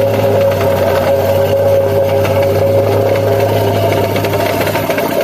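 An engine running steadily at a constant speed with an even, unbroken hum.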